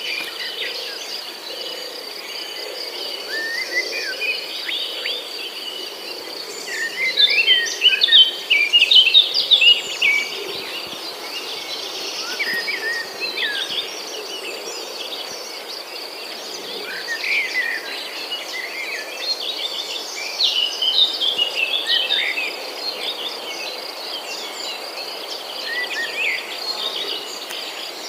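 Small birds chirping and calling in quick overlapping bursts, busiest a third of the way in and again past the middle, over a steady thin high-pitched tone and a faint hiss.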